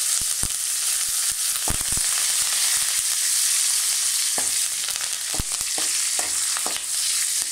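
Garlic, green chillies and curry leaves sizzling steadily in hot oil in a metal kadai, with scattered sharp pops and taps, stirred with a metal spatula.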